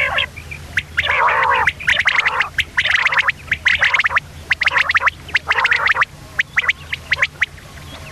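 Common quail calling: rapid chattering bursts of clicks, about one burst a second, thinning to scattered single clicks near the end, over a steady low hum.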